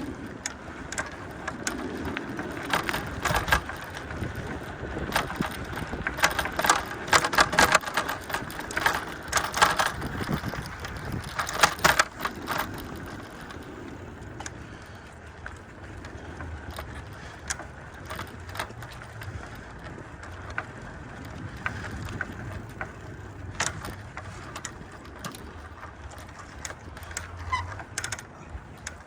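A bicycle ridden over a rough trail, rattling and clicking over bumps. The rattling comes in dense bursts in the first half and thins to scattered clicks later, over a low steady rumble.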